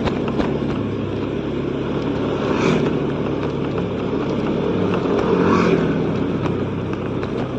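Motorcycle running at a steady cruise with road and wind noise, as heard from the rider's own bike. Two brief swells rise about three seconds and five and a half seconds in, as other vehicles pass.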